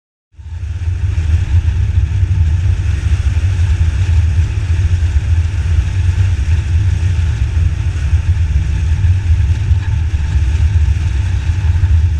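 Motorcycle running at a steady cruising speed, heard from on the bike, with a heavy, steady low rumble; it starts abruptly just after the start.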